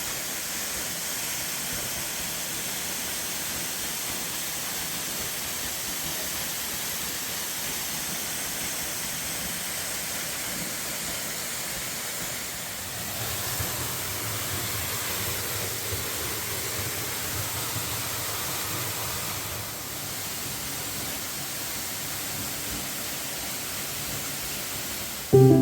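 Steady rushing of falling water from a rainforest waterfall. The sound changes slightly in tone about halfway through and again near 20 seconds.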